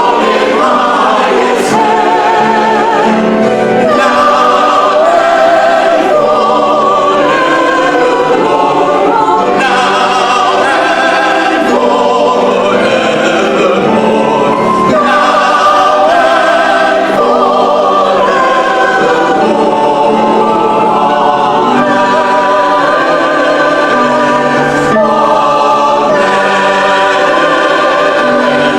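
A choir singing, many voices holding long notes with vibrato.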